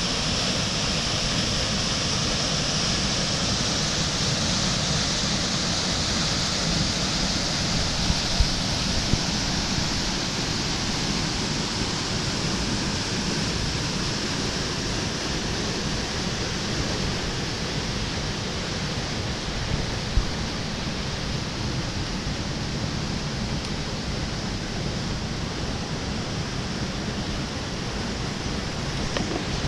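Swartrivier rushing over rocks at Pepsi pools, a steady loud rush of fast-flowing water running high after rain.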